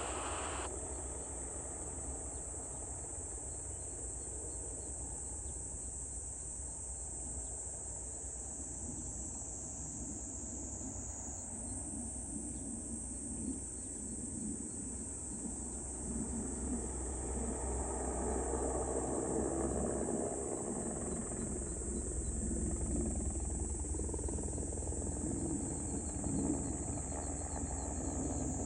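Insects chirring in a continuous high-pitched drone over a low rumble, which grows louder about halfway through.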